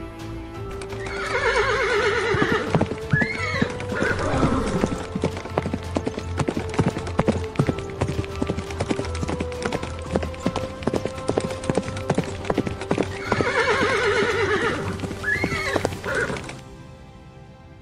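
Horse whinnying twice, a long quavering neigh falling in pitch about a second in and again near the end, over a steady clip-clop of hooves. Background music plays underneath.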